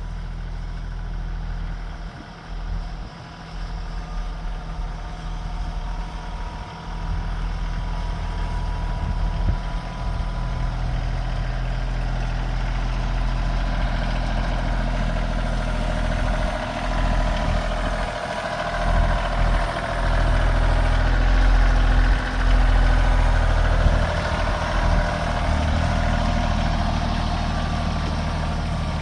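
Tractor engine running steadily while clearing snow, getting louder in the second half.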